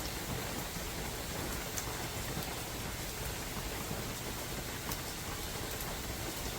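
Steady rain falling in a forest: an even hiss, with a few single drops ticking now and then.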